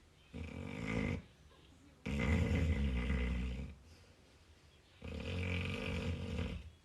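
Labrador retriever snoring in its sleep: three loud, rasping snores about a second apart, the middle and last ones longer.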